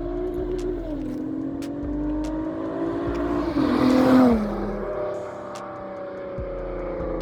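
A car accelerating hard as it drives by, its engine note climbing, then dropping in pitch at its loudest point about four seconds in before running on steadier and quieter.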